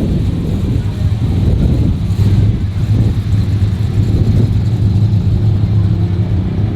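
A car engine running with a steady, loud, deep rumble.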